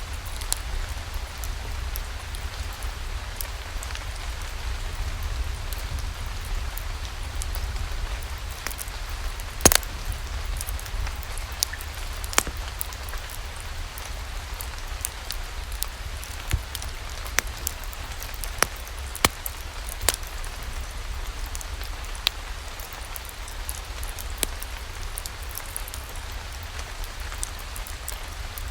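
Steady rain with a low rumble underneath, and irregular sharp pops every second or two like a wood fire crackling in a fireplace.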